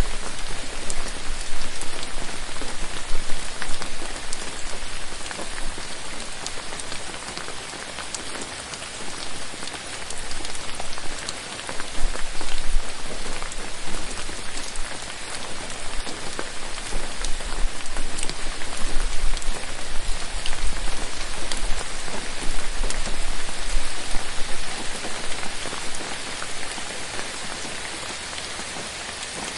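Steady rain falling, with many close individual drops hitting; the level swells and eases now and then.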